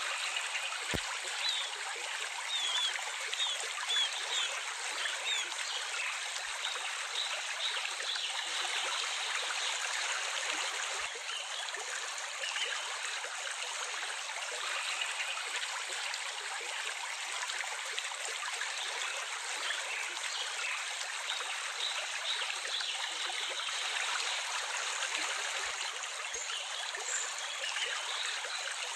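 Water running and trickling steadily, like a small stream, with birds chirping faintly now and then, most often in the first few seconds.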